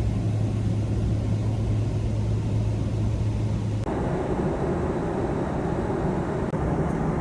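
Airliner cabin noise: a steady jet-engine drone with a strong low hum, cutting about four seconds in to a broader, steady rush of in-flight cabin noise.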